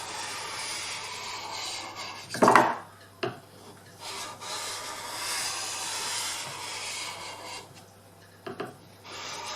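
Steel drawknife blade scraping back and forth on a wet sharpening stone, in two stretches of strokes with a pause between. A loud knock about two and a half seconds in, and a few lighter knocks later.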